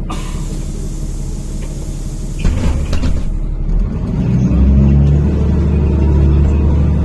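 Inside a NefAZ-5299 city bus: a long air hiss for about three seconds, ending in a clunk as the pneumatic doors shut. Then the bus engine pulls away from the stop, its low drone growing louder as it accelerates.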